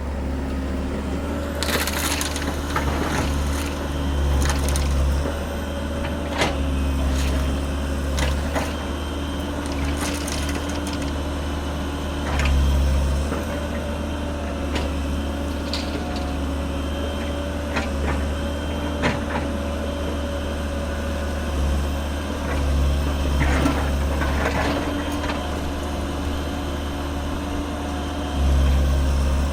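Komatsu PC210-10 excavator's diesel engine running steadily and swelling several times under hydraulic load, with repeated cracks and clatter of crushed stone being scooped and dumped into a truck bed.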